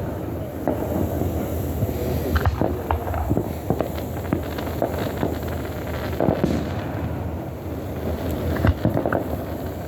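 Aerial fireworks going off in quick succession: a dense run of crackles and pops, with heavier booms about two and a half seconds in, after about six seconds, and near the end.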